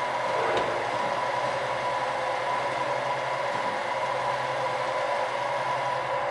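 Nissan Note Rider 4WD engine idling steadily, heard through its exhaust.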